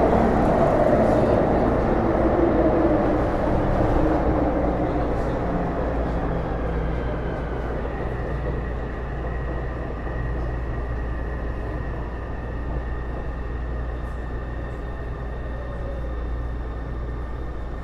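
Interior running sound of a Taipei Metro Series C301 car with Bombardier IGBT-VVVF traction equipment: steady wheel-on-rail rumble with faint steady whining tones from the traction equipment. It is louder for the first few seconds, then eases and holds steady.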